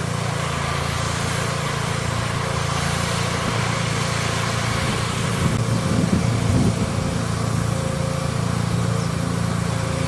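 Small engine of a mobile high-pressure unit running steadily, with an even hiss over it and a brief rise in level about six seconds in.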